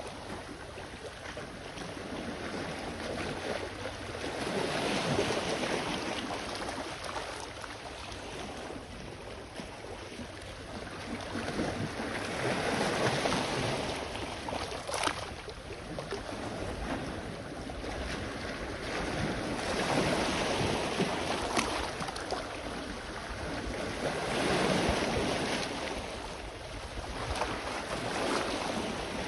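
Sea waves washing onto the shore, the surf swelling and fading every several seconds, with a couple of short sharp ticks.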